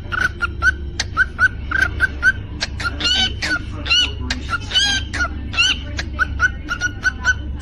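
Cockatiel chirping: a run of short, repeated chirps, about three a second, broken in the middle by a few longer, higher calls that rise and fall.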